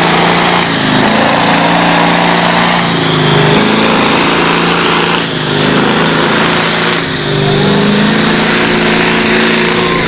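Pulling tractor's engine at full power during a pull. Its note dips and recovers about four times as the tractor drags the weight sled.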